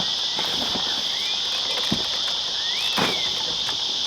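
A steady, high, unbroken chorus of insects buzzing, with a couple of short rising-and-falling whistles and a few faint knocks over it.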